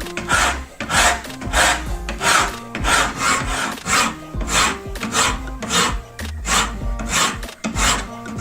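A hand tool worked in even back-and-forth rasping strokes, about three every two seconds, over background music.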